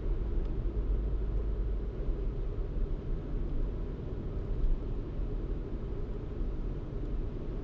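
Car driving along at steady speed: a continuous low rumble of engine and tyres on the road, with no distinct events.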